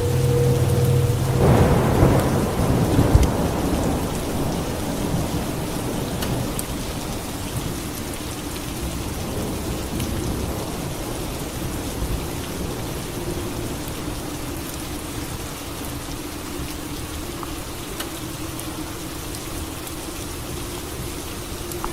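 Steady rain falling, with a roll of thunder about two seconds in that swells and fades over the next couple of seconds.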